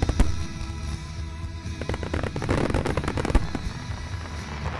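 Aerial firework shells bursting: sharp bangs at the start, then a dense run of rapid crackling bangs in the middle, with the loudest single bang a little over three seconds in. Music plays steadily underneath.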